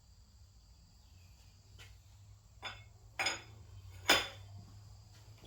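Several sharp metallic clinks and knocks from a transaxle and steel engine stand being handled, the loudest a little after four seconds in, over a steady low hum.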